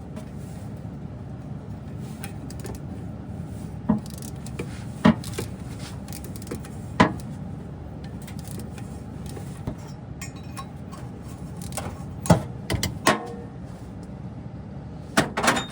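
Hand tools clinking against metal, a handful of sharp, irregularly spaced clinks, while the last bolt of a stock exhaust manifold is worked loose. Steady background noise runs underneath.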